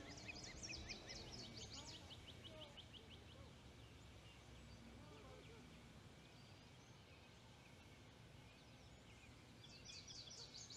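Osprey calling: faint, rapid runs of high, sharp whistled chirps, about six to eight a second, during the first three seconds and again near the end, over a low steady rumble.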